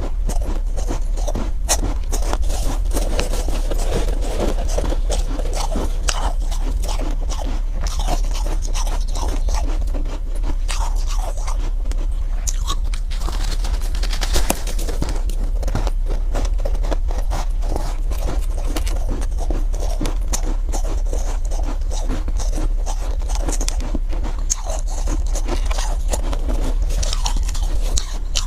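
Soft, powdery ice being scraped up and crunched and chewed close to the microphone: a dense run of small crackles with no pause, over a steady low hum.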